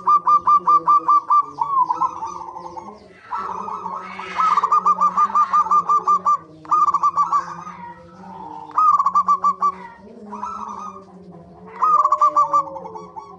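Zebra doves (perkutut) calling: quick runs of cooing notes at about ten a second, each run lasting a second or so and coming back several times, with fainter calls in between. A faint steady low hum lies underneath.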